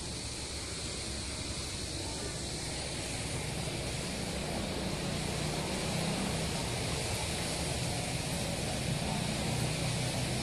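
Traffic noise: a motor vehicle's engine running and drawing nearer, growing gradually louder.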